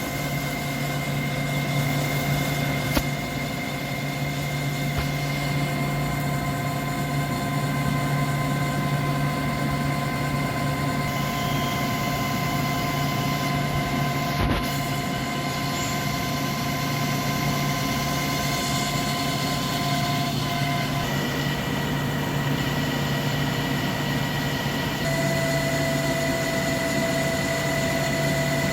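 CNC lathe running: a steady low motor hum with high whining tones that step to a new pitch about two-thirds of the way through and again near the end. There is a light click twice.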